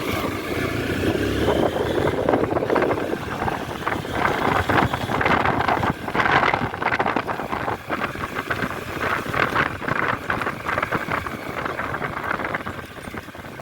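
Honda CB200X motorcycle's 184.4 cc air-cooled four-stroke engine running on the road, with gusty wind buffeting the microphone.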